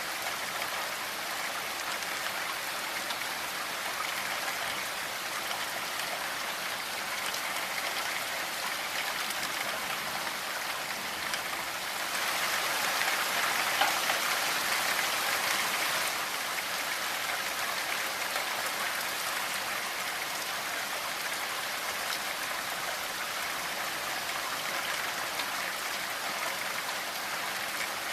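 Steady rainfall with drops pattering on surfaces, in an even hiss that swells heavier for a few seconds about halfway through.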